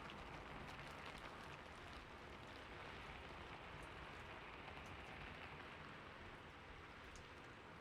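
Soft, steady rain falling, with faint scattered drop ticks.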